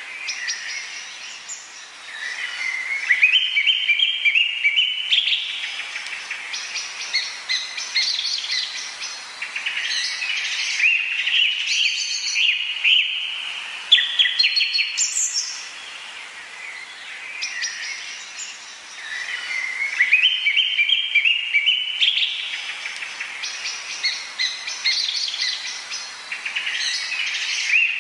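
Wild birds calling and singing. One repeats a phrase of quick notes stepping upward every few seconds, with shorter chirps around it, over a steady background hiss.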